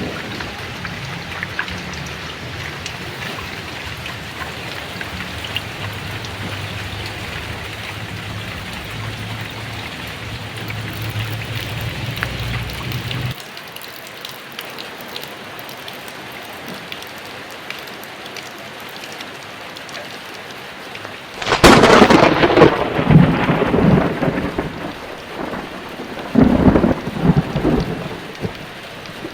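Heavy rain falling steadily, under a low thunder rumble that cuts off abruptly about halfway through. Then two loud thunderclaps, each rolling on for a few seconds, come about 21 and 26 seconds in.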